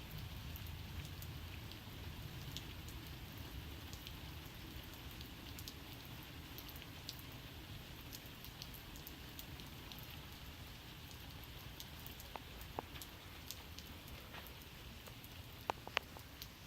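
Steady rain falling, with scattered raindrops tapping close by and a few sharper drips near the end.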